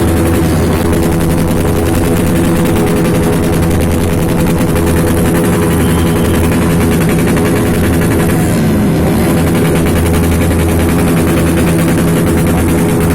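Motorcycle engine revved flat out and held at the rev limiter, loud and steady throughout.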